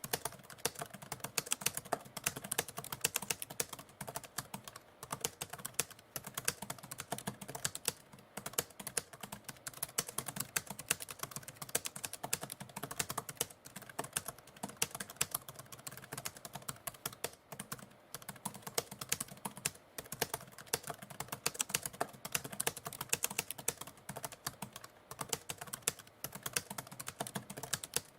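Typewriter keys clacking in rapid, continuous runs, broken by brief pauses every few seconds.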